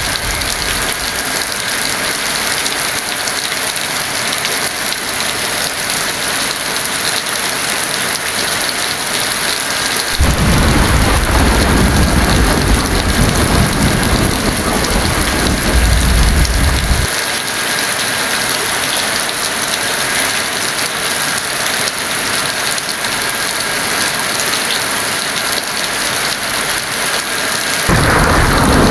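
Heavy rain hissing steadily, with a long roll of thunder starting about a third of the way in and rumbling for around seven seconds. A second roll of thunder begins near the end.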